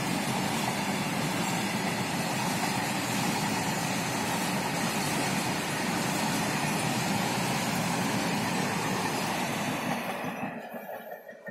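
Express train running past at speed on the next track, a steady loud rush of wheels and coaches on the rails. It falls away quickly about ten and a half seconds in as the train clears.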